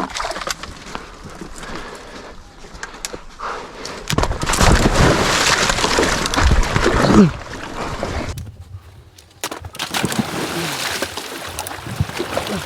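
Water splashing and sloshing in uneven bursts, loudest about four to seven seconds in, cut off suddenly at about eight and a half seconds, then resuming a second later.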